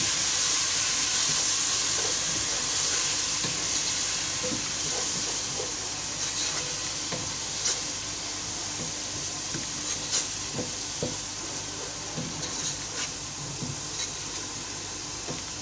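Onion and spice masala sizzling in hot oil in a non-stick pot after a splash of water, stirred and scraped with a wooden spoon that knocks lightly against the pan now and then. The sizzle slowly dies down as the water cooks off.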